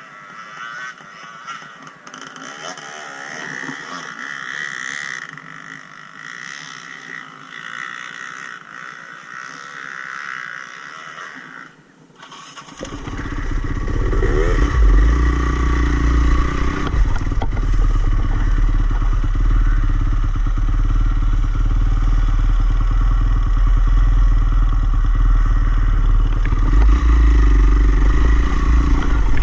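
Dirt bike engine running and revving, fairly quiet at first. About twelve seconds in it jumps to a much louder, closer engine with a heavy low rumble.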